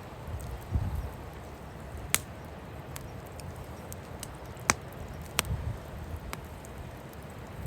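Wood fire crackling, with a few sharp pops from the burning logs, while gusts of wind buffet the microphone with low rumbles.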